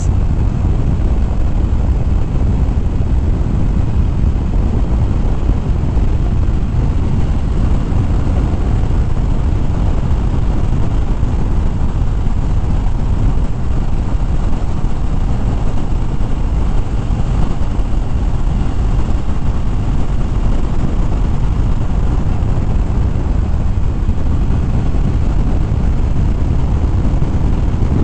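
Harley-Davidson Fat Bob motorcycle running steadily at cruising speed, its engine mixed with heavy wind rushing over the helmet microphone.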